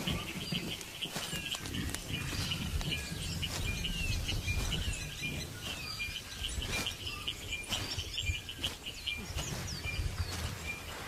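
Forest birds chirping: many short calls and quick whistled slides, repeating throughout, over a low rumble with scattered sharp clicks.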